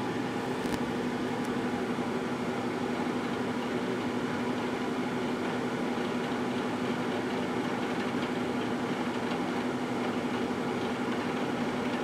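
Microwave oven running, a steady hum with a constant low tone.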